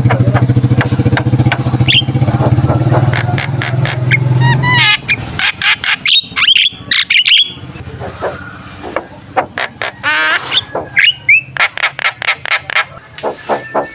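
Javan myna calling: a long, low, harsh rattling churr lasting about five seconds, then a run of sharp clicks, warbling whistles and squawks.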